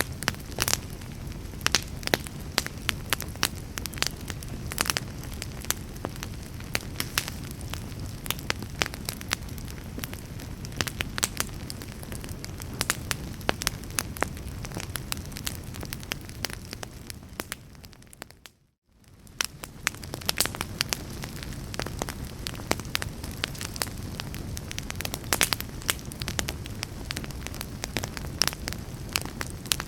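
Wood fire crackling in a fireplace: frequent sharp pops and snaps over a steady low rumble of flames. About two-thirds of the way through, the sound briefly fades out to near silence and then fades back in.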